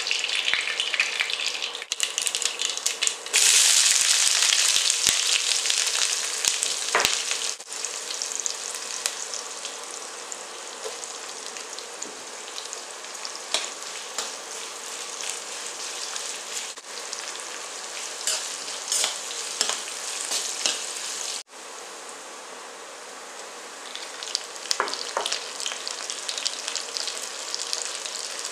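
Hot oil sizzling as mustard seeds go in, then a louder surge of sizzling about three seconds in as more ingredients hit the pan. Sliced onions and green chillies then fry with a steady sizzle while a spatula stirs them, with scattered light clicks.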